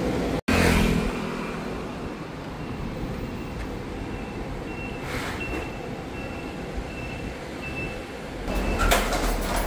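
Steady traffic-like rumble, with a thin high beep that comes and goes in short pulses through the second half.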